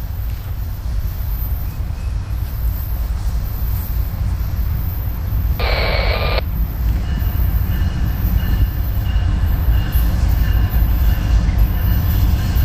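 Diesel freight locomotives approaching with a heavy low rumble that grows steadily louder. A brief sharper sound cuts in about six seconds in, and faint higher tones come and go near the end.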